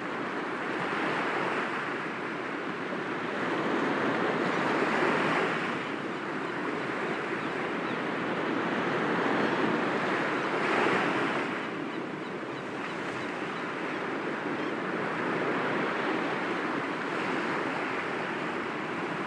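Sea waves breaking gently against rocks, a continuous wash of surf that swells and falls, with louder surges about five seconds in and again about eleven seconds in.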